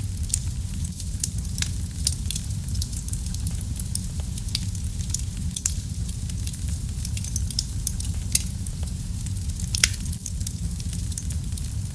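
Wood fire in a fireplace burning with a steady low rumble and frequent sharp crackles and pops, one larger pop near the end.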